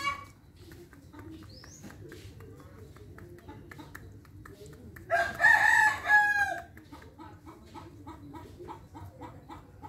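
A broiler chicken crows once, about five seconds in, with a pitched call broken into a few parts. Soft, irregular clicks of its beak pecking at bird seed come before and after the crow.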